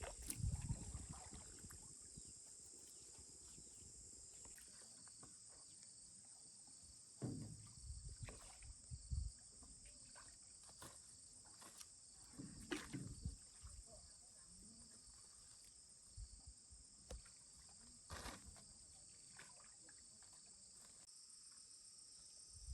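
A steady high-pitched insect chorus, with scattered soft low knocks every few seconds.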